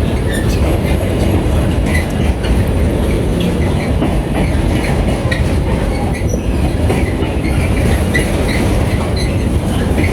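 A train running along the track at the station: a loud, steady rumble of wheels on rails with scattered short squeaks and clicks.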